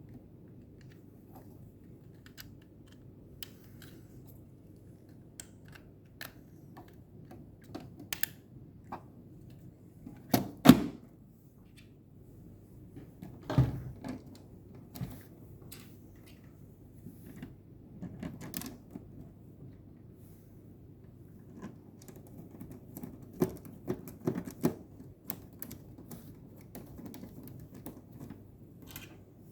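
Scattered clicks and knocks of small hard parts being handled and fitted, irregular and unhurried, with the loudest knocks about ten and fourteen seconds in.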